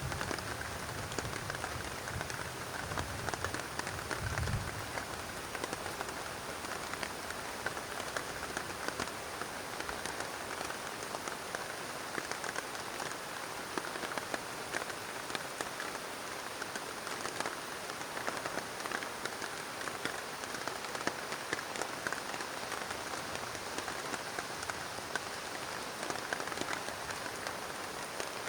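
Heavy rain falling steadily on a plastic tarp: a dense, even hiss of countless small drops. A low rumble fades out in the first few seconds.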